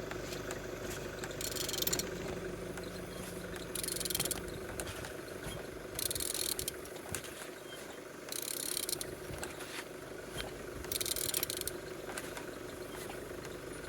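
306DT diesel engine being turned over by hand, its crankshaft rotated with a ratchet wrench: five short rattling ratchet strokes, one about every two seconds, over a steady hum. The engine turns freely.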